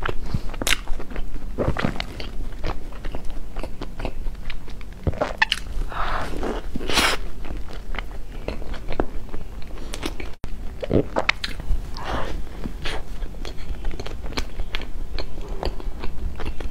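Close-miked biting and chewing of a soft bread roll topped with meat floss: wet mouth sounds and soft crackles of bread and floss as she eats.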